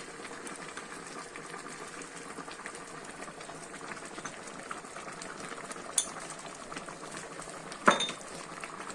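Plov zirvak, beef broth with red wine, boiling steadily in the pot. Two sharp knocks come about six and eight seconds in, the second louder.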